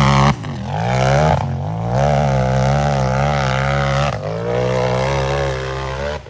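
Unlimited-class racing UTV engine at high revs on a hill run, the pitch rising and falling with the throttle and dipping sharply about three times. The sound drops away abruptly near the end.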